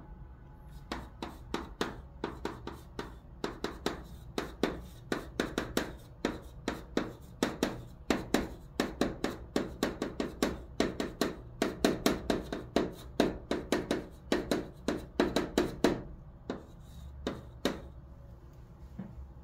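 Chalk writing on a chalkboard: a rapid run of sharp taps and short scratches of the chalk as characters are written. The strokes come thick and fast, then thin out to a few scattered ones near the end.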